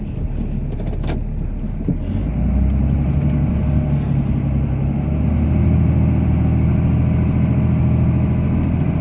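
Cummins straight-six turbo-diesel of a Ram pickup running under load while pushing snow with the plow, heard from inside the cab. The engine note rises about two and a half seconds in and gets louder again a few seconds later. A sharp click about a second in.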